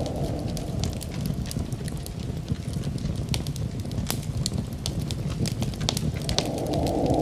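Wood fire in a fireplace crackling, with frequent sharp pops and snaps over a steady low rumble. A louder rushing sound fades out at the start and swells back in near the end.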